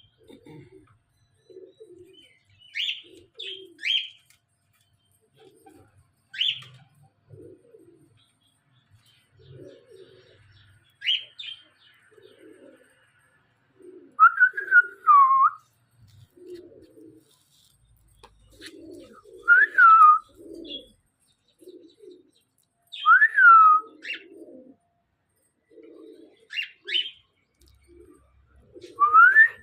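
Pet parrots calling: loud whistled calls that slide down in pitch come every few seconds, some in quick pairs. Under them, soft low cooing repeats about once a second.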